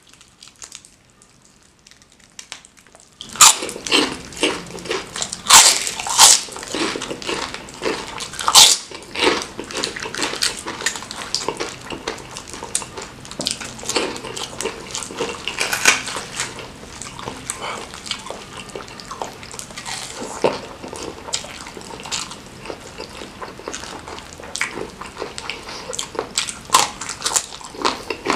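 Close-miked eating: crunching of gravy-soaked skin crackers (kerupuk kulit) and rice with wet chewing and lip smacking, many sharp crunches in quick irregular succession. It starts about three seconds in, after a quiet opening.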